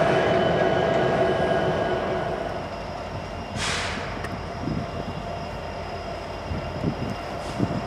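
Freight train rolling past on steel wheels, with faint steady wheel squeal over the rolling noise, fading over the first few seconds. A brief rush of noise comes about three and a half seconds in, after which only a quieter, low rumble of a distant train remains.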